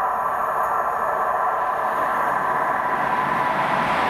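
A ČD class 380 electric locomotive hauling a passenger train approaches at speed, its rail and running noise building as it nears, over a steady rushing background noise.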